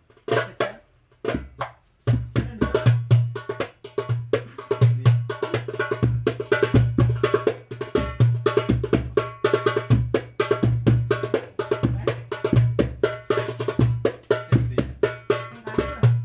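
9-inch darbuka with a Remo plastic head, played by hand. A few single strokes come first, then about two seconds in a fast rhythm starts: deep bass strokes in the middle of the head mixed with rapid sharp strokes at the rim.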